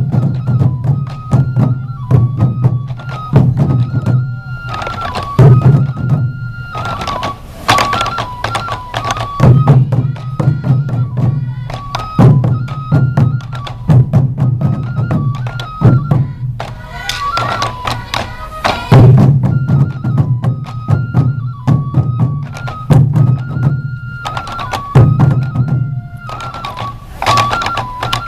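Sansa odori festival music: massed taiko drums beating a steady rhythm under a high, stepping melody on a Japanese transverse bamboo flute (fue).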